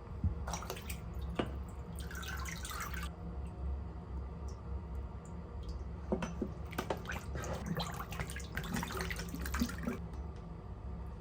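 Small water sounds, dripping and light splashing, in two spells, over a steady low hum.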